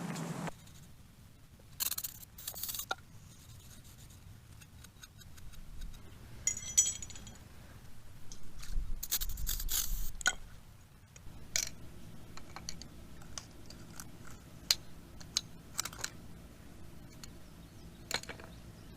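Metal tools and motorcycle parts handled by hand, clinking, clicking and scraping at irregular moments. There is one short ringing clink about seven seconds in and a longer scrape around nine to ten seconds.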